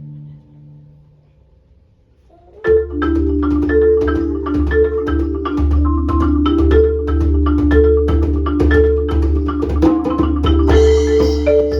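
Marimba playing a fast passage of rapid mallet strokes with deep low notes underneath, coming in suddenly after a short, nearly quiet pause about two and a half seconds in. A bright high shimmer of percussion joins near the end.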